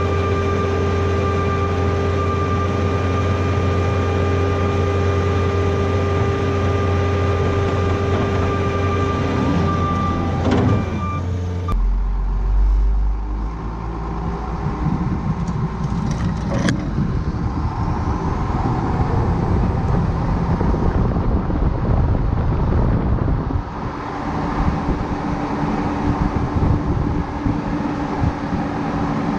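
Kubota tractor's diesel engine running at a steady speed with a constant hum. About twelve seconds in the sound changes abruptly to a rougher, noisier engine rumble that carries on.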